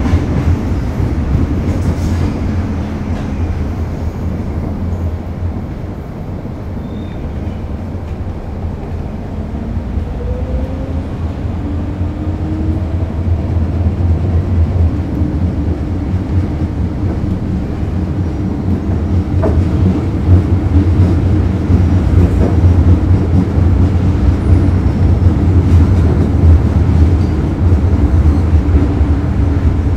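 Steady low rumble of a vehicle in motion, growing louder about twenty seconds in.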